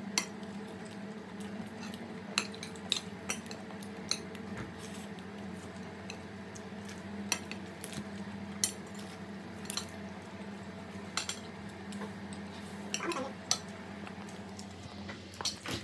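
Metal spoons and forks clinking and scraping against plates while eating, a dozen or so scattered clinks over a steady low hum.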